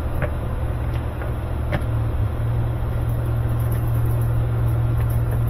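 A steady low mechanical hum with a couple of faint light clicks.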